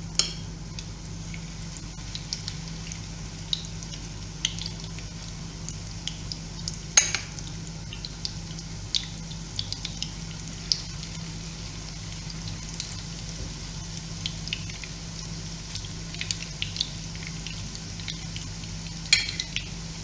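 Chopped-chicken fritters frying in hot oil in a frying pan: a steady sizzle with scattered sharp crackling pops and clicks, a couple of them louder. A steady low hum runs underneath.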